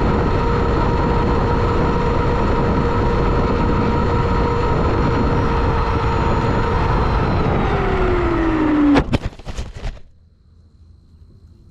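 A small RC car's electric motor and drivetrain running steadily with a constant whine and rushing noise; about eight seconds in the whine falls in pitch as it slows, then a few sharp knocks, after which it goes much quieter.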